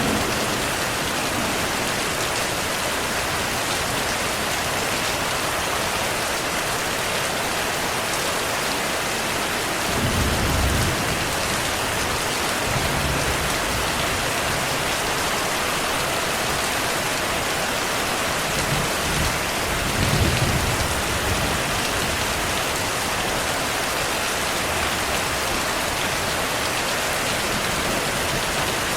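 Steady heavy rain, with low rumbles of thunder swelling about ten seconds in and again around twenty seconds in.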